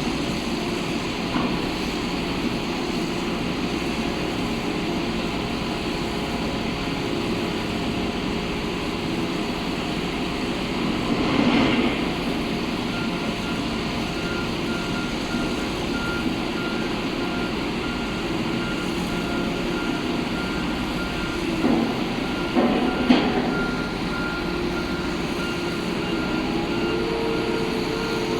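Heavy construction machinery running steadily. A backup alarm starts beeping in even pulses about halfway through, with a couple of loud clanks, and an engine revs up near the end.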